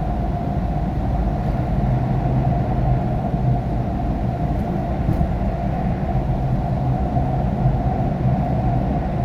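Steady low road and engine rumble from inside a moving car's cabin while driving in the rain, with a low hum running through it.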